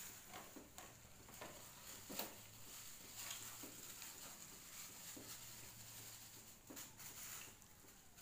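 Faint, scattered taps and clicks, like small objects being handled, over a low steady hum and hiss.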